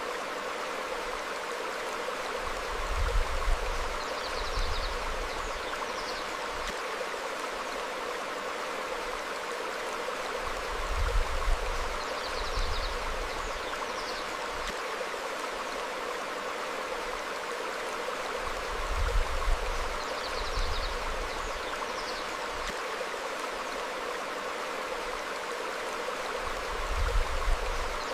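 Stream flowing over rocks in a steady rush of water, with a low surge about every eight seconds. Faint bird chirps come in pairs a second or two after each surge.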